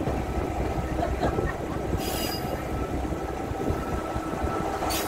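Diesel railcar rolling slowly into a terminus station: steady engine and wheel rumble, with a faint steady whine and two short hisses, one about two seconds in and one near the end.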